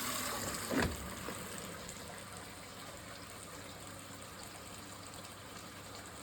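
Water rushing into a Hoover Ecologic 1300 washing machine through its inlet valve as the drum fills, a sign the fill valves are working. A short thump comes about a second in, and the rushing gets quieter over the next couple of seconds, then runs on steadily.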